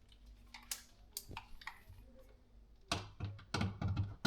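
Scattered small clicks and knocks from hands and tools working on the old ceiling light fixture and its mounting screws, with a quick run of knocks near the end.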